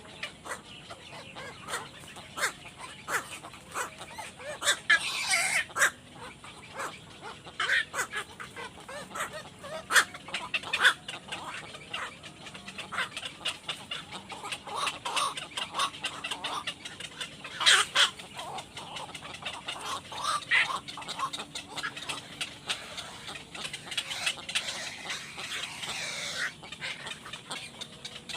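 Birds giving short, scattered calls among many quick sharp taps or clicks, with a few louder calls spaced through.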